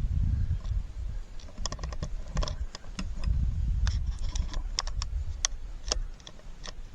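Camera tripod being set up and handled: a run of irregular plastic and metal clicks and clatter over low handling rumble on the microphone.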